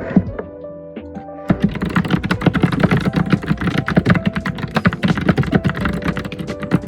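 Typing on a computer keyboard: a few scattered keystrokes, then rapid, dense keystrokes from about a second and a half in, over background music with held notes.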